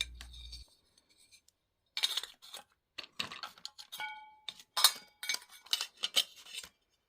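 Metal kitchenware being handled: a run of light knocks and clinks, one of them ringing briefly like a struck pot about four seconds in.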